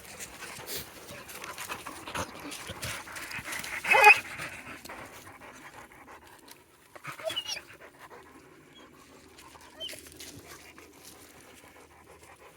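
Dogs panting hard after training work, with a short high whine about four seconds in and a couple of faint squeaky whimpers later.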